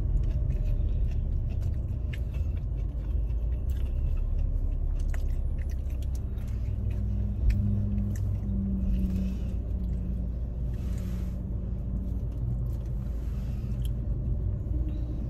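Steady low rumble of a car's engine running, heard from inside the cabin, with faint small clicks. A low hum comes and goes about halfway through.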